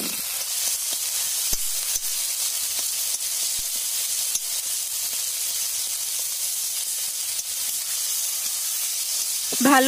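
Potatoes, tomatoes and ground spices sizzling steadily in oil in a kadai while they are sautéed down into the masala, with a few faint clicks of the metal spatula against the pan.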